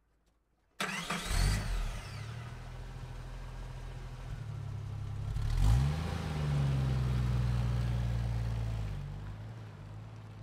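Car engine starting suddenly about a second in with a quick rev, then running steadily. It is revved again around the middle, held higher for a few seconds, and settles back down near the end.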